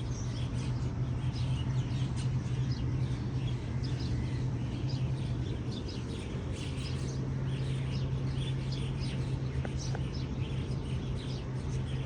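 Small birds chirping, many short high calls one after another, over a steady low hum.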